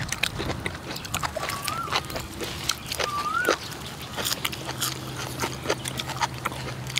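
Close-up wet chewing and lip-smacking of people eating raw tripe and liver with fresh leaves, a quick string of clicks and smacks. A short whistled call that rises and then falls sounds twice in the background.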